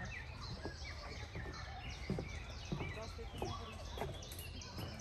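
Songbirds chirping in woodland, many short falling calls overlapping, over a steady low rumble.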